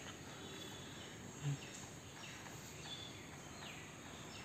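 Quiet outdoor ambience with faint, short falling bird chirps roughly once a second, and a brief low bump about a second and a half in.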